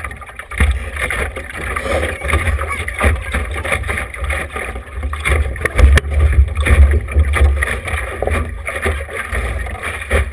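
Wind buffeting the camera microphone aboard a small sailboat, an uneven low rumble over the steady wash of water along the hull.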